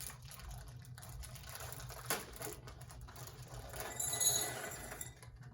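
Chocolate chips being poured from their bag into a measuring cup: a run of small clattering and rattling with rustling, and a sharp click about two seconds in.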